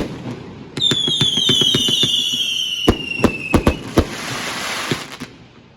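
Consumer firework cake going off: sharp bangs and a rapid string of pops, with several whistles falling in pitch together, then a few louder bangs and a crackling hiss that dies away near the end.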